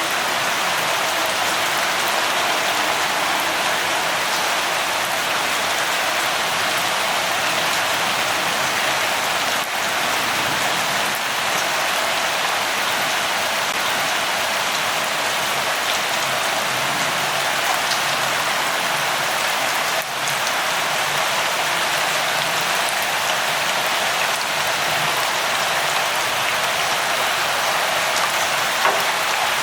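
Light rain falling steadily: an even hiss with a few faint drop ticks scattered through it.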